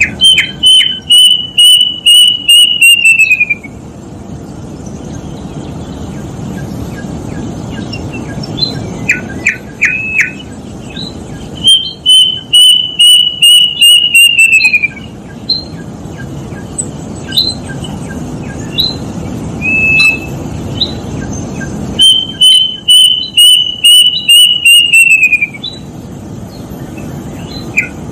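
Plaintive cuckoo (kedasih) singing: three runs of about ten clear whistled notes, each run falling in pitch as it goes, roughly ten seconds apart. Short quick high calls come between the runs, over a steady low background noise.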